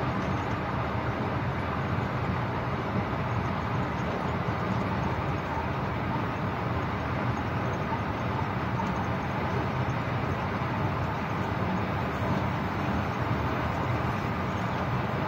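Steady running noise of a moving train heard inside the locomotive cab, an even rumble with no horn or separate knocks.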